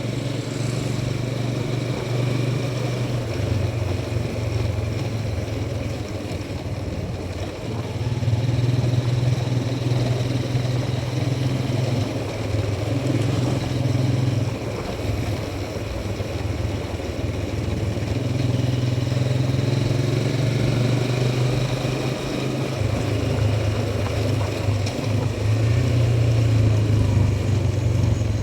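Motorcycle engine running steadily on the move, its note swelling louder and easing off several times with the throttle.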